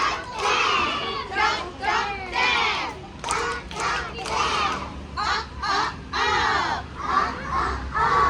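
A group of children shouting short sounds together in unison, a quick string of repeated chanted shouts, typical of a class calling out phonics sounds in chorus.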